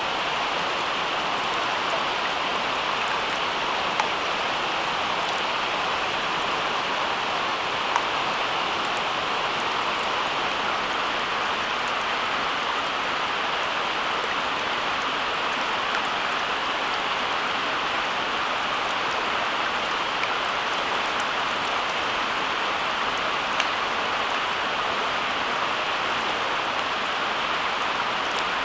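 Steady rain: an even hiss with a few sharp single drop ticks standing out.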